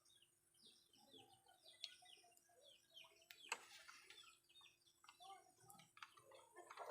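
Faint bird chirping: many short, quick calls falling in pitch, over a faint steady hum.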